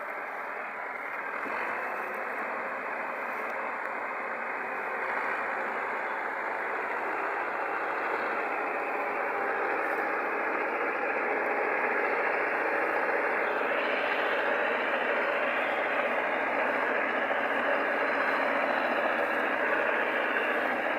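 Tractor engine running steadily, gradually getting louder.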